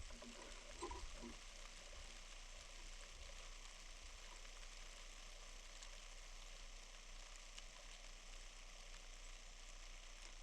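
Faint, steady hiss of a snowstorm: wind and falling snow with no distinct events, a brief soft bump about a second in.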